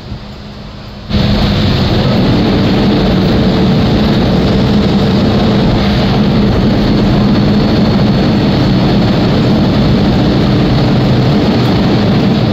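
MTR M-Train electric multiple unit running at speed: a loud, steady rumble and roar with a low hum. It starts abruptly about a second in.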